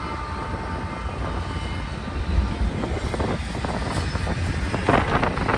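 Freight train led by GE ES44 diesel locomotives rolling past, a steady deep diesel rumble, with sharp clanks from the wheels and cars that start about halfway through and are loudest near the end.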